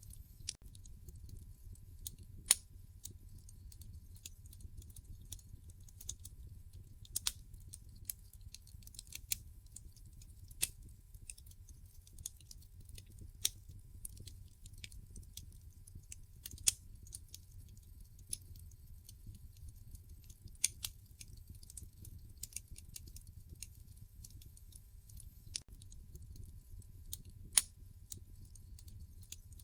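Wood fire in a fireplace crackling, with irregular sharp pops every second or so, a few of them much louder, over a low steady rumble of the burning logs.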